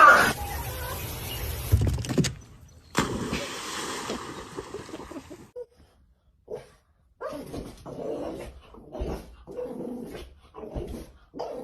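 A dog vocalising in short bursts, broken by abrupt cuts and a brief silent gap.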